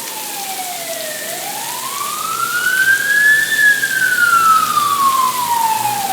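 Fire engine siren wailing, its pitch falling, rising slowly to a peak about halfway through, then falling again.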